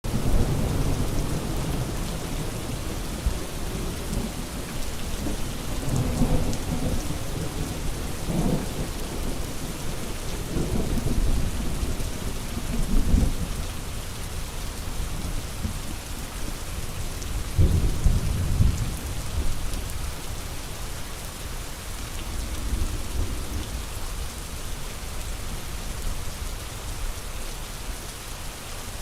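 Steady rain falling, with several low rolls of thunder rising and fading over it; the strongest thunder rumble comes about two thirds of the way in.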